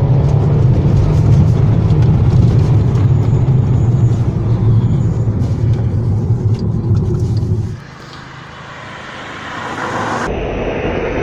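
Volkswagen Golf 1.4 TSI on the move: a loud, steady low engine and road rumble that drops away suddenly about eight seconds in, leaving a quieter background.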